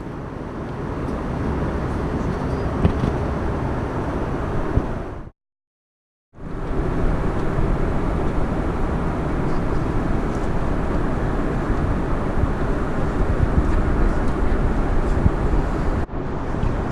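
Steady cabin noise of an Airbus A340-300 in cruise: a constant rush of airflow and engine noise, heaviest in the low end. It drops out to silence for about a second about five seconds in, then resumes unchanged.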